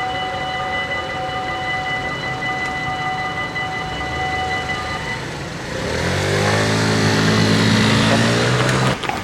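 Electronic bells of a Dutch automatic half-barrier level crossing ring steadily, then stop about five seconds in. A louder vehicle sound with a low humming pitch follows and cuts off suddenly near the end.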